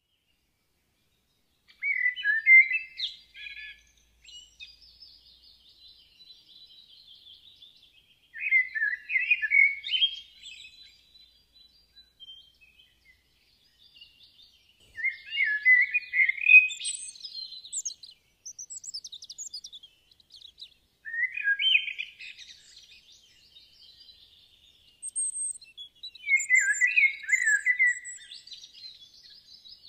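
Birdsong: a bird sings short, chirping phrases about every five to six seconds, starting about two seconds in, with fainter twittering between them.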